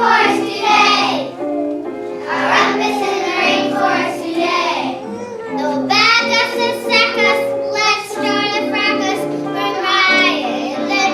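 Children singing a song in phrases over steady instrumental accompaniment.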